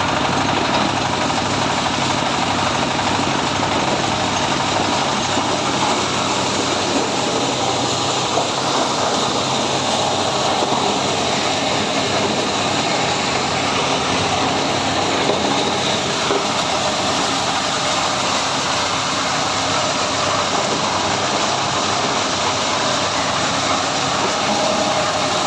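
Diesel-powered mobile corn sheller running, its engine and threshing machinery making a loud, steady mechanical din.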